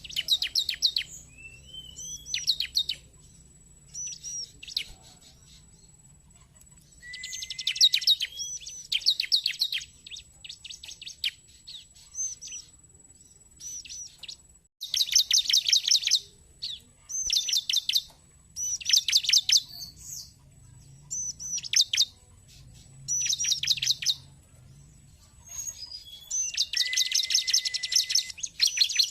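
Bar-winged prinia (ciblek) singing: repeated bursts of fast, high, sharp chirps, each burst about a second long, with short pauses between.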